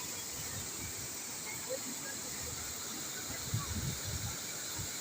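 Waterfall's steady rushing hiss of falling water, with a few low bumps about three and a half seconds in.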